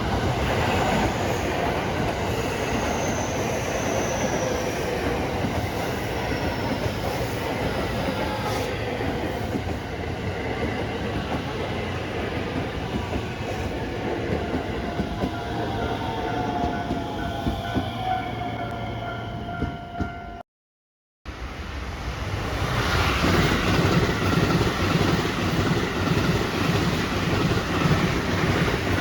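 Train running on the line next to the station, a steady rumble of wheels on rail with a whine that falls in pitch over the first two-thirds. The sound cuts out completely for under a second, then comes back louder, with the wheels clattering over the rail joints.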